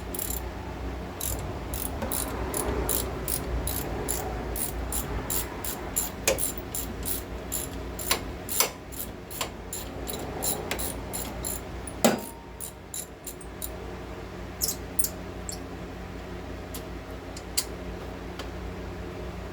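Ratchet wrench clicking steadily, about three clicks a second, while loosening a brake line fastener. A single sharp metallic knock comes about twelve seconds in, then a few scattered clicks, over a steady low hum.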